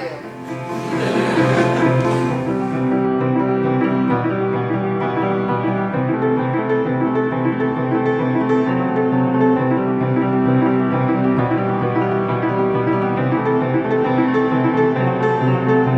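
Piano music: repeated notes over sustained low tones. A hiss of noise runs under it for the first two or three seconds, then fades.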